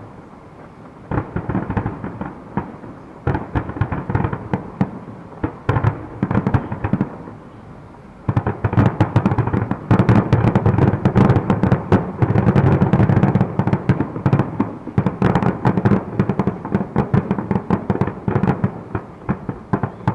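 Fireworks grand finale: mortar shells launching and bursting in a rapid, near-continuous barrage of cracks and booms, thinning for a moment then building to a dense run of bursts about 8 seconds in.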